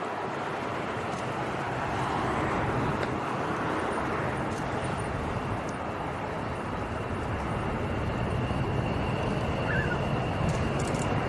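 Steady engine noise, a continuous rumble and hiss with a faint high whine, growing a little louder in the second half.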